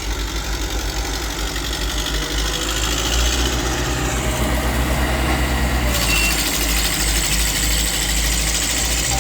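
Heavy diesel engine of earthmoving machinery running steadily, working a little harder for a few seconds midway.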